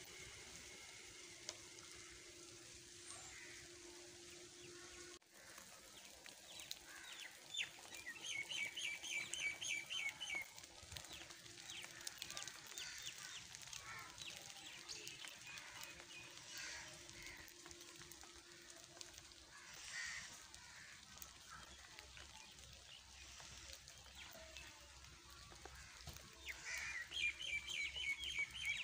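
Birds calling: scattered chirps, with a rapid run of repeated chirps lasting a couple of seconds about eight seconds in and again near the end, over a faint steady hiss of light rain.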